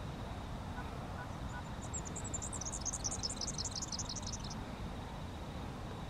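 A small bird calls a high, rapid run of short notes, starting about two seconds in and stopping about halfway through, over a steady low outdoor rumble.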